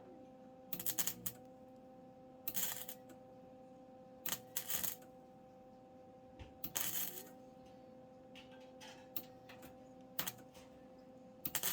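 Welder laying tack welds on sheet metal: six short crackling bursts of about half a second each, spaced a second or two apart, over a steady electrical hum.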